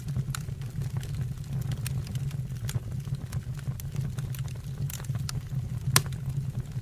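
Wood fire burning in a fireplace: a steady low rumble of the flames with scattered crackles and pops, the loudest pop about six seconds in.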